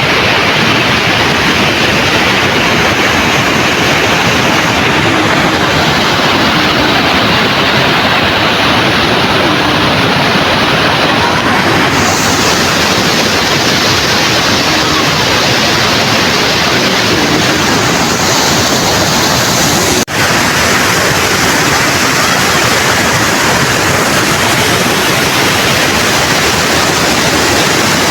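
Loud, steady rush of a fast-flowing river, its tone shifting slightly partway through, with a momentary dropout about two-thirds of the way in.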